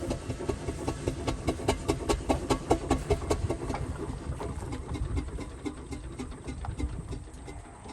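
1911 Foden steam traction engine running, with a rapid, fairly regular clatter of knocks over a low rumble. It grows fainter from about halfway through.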